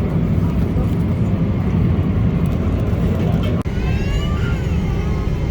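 Steady cabin noise of a Boeing 777-300ER airliner in cruise, a dense low rumble of engines and rushing air, with a brief break a little past halfway.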